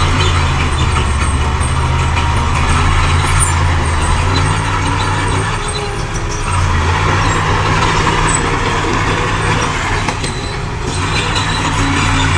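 Heavy diesel engine of earthmoving machinery running steadily under load, with a low drone that eases briefly about six seconds in and again near ten seconds.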